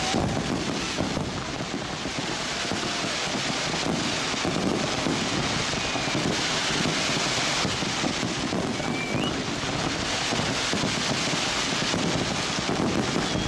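Fireworks display: a dense, continuous crackle and rumble of bursting shells, with a few short rising whistles and wind on the microphone.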